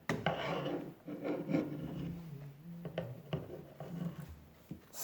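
Plush fur and foam rubbing and rustling as a stuffed toy's foot is pushed back into its fuzzy body, with a few small clicks of the plastic parts inside.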